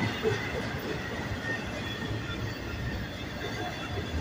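Freight train of intermodal double-stack well cars rolling past, its wheels on the rails making a steady, dense rumble.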